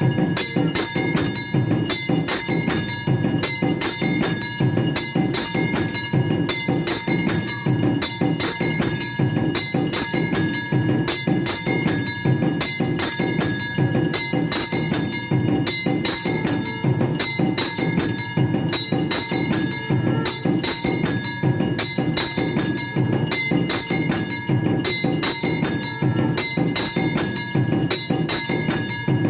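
Temple bells ringing rapidly and without pause, over fast, steady drumming, as played for the evening aarti worship.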